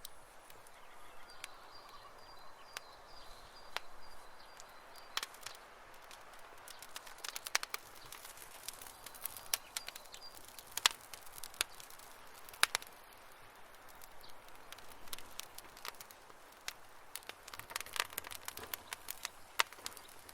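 Wood campfire crackling, with irregular sharp pops and snaps, some much louder than the rest, over a soft bed of burning noise. A faint, thin high whistle comes and goes over a few seconds in the first half.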